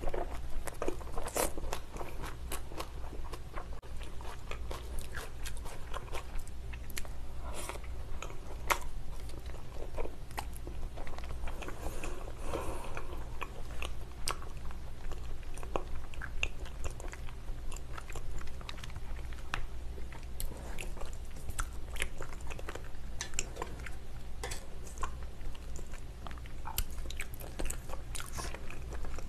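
Close-miked chewing of raw salmon sashimi: a continuous run of irregular wet mouth clicks and smacks.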